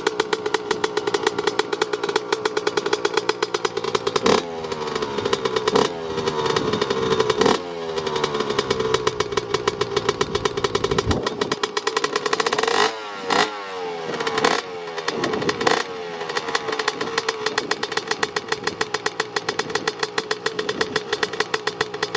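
Yamaha YZ125 single-cylinder two-stroke dirt bike engine running just after a one-kick cold start. It is given a series of quick throttle blips between about 4 and 16 seconds in, and the revs fall back to a steady idle after each.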